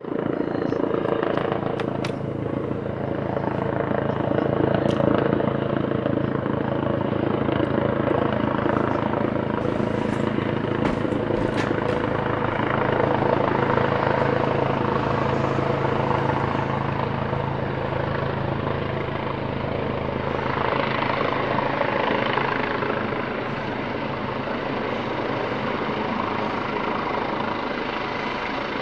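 Helicopter landing: steady rotor and turbine noise with a low hum, broken by a few sharp clicks in the first half; the low hum eases off about two-thirds of the way through.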